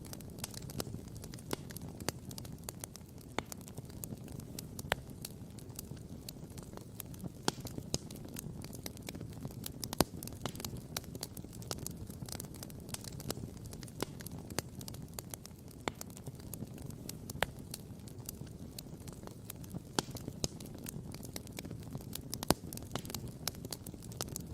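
Wood campfire crackling and popping: many irregular sharp pops, a few louder ones about ten seconds in and near the end, over a low steady rumble.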